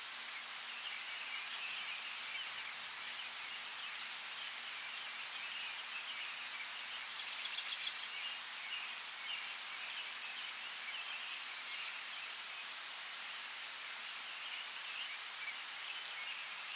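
Steady hiss of light rain with small birds chirping throughout. About seven seconds in, one bird gives a loud, quick trill of about six notes, and a fainter trill follows near twelve seconds.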